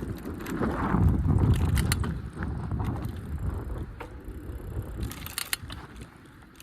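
Bicycle being ridden, with scattered sharp mechanical clicks and a low rumble that swells about a second in and then fades.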